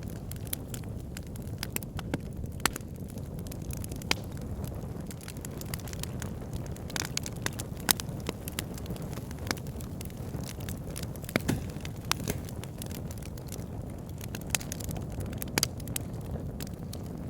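Campfire burning, with a steady low rumble under irregular crackles and sharp pops, a few of them louder.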